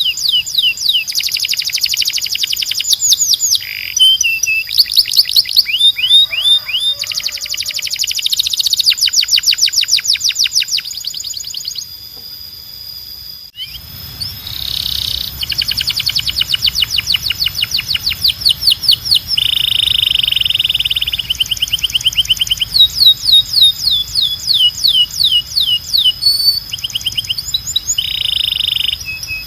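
Domestic canary singing: fast trills of repeated down-slurred notes in changing series, with buzzy rolling passages. The song breaks off briefly about halfway through, then carries on with a low background hum underneath.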